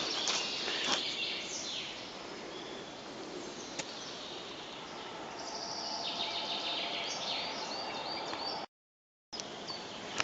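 Forest birds singing, with a run of quick high chirps in the second half. A few sharp clicks are heard, and the sound drops out completely for about half a second near the end.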